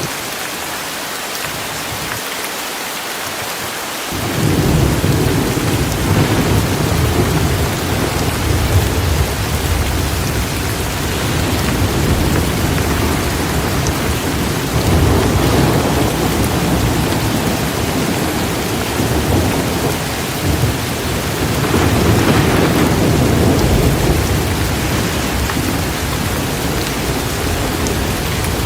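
Steady rain hiss; about four seconds in, a deep rolling thunder rumble comes in under it and keeps going, swelling twice more.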